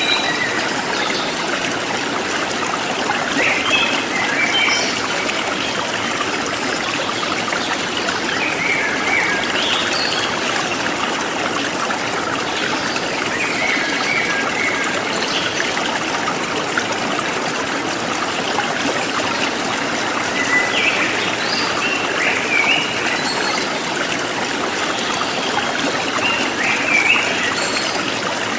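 A forest stream flowing steadily over rocks, with small birds chirping in short bursts every few seconds above the water.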